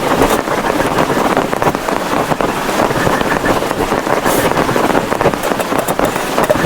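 Heavy rain hitting a plastic tarpaulin, a dense, steady rush of countless drops.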